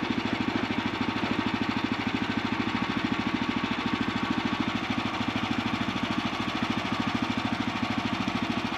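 Small pull-start gasoline engine of a portable sawmill running steadily with an even, rapid pulse.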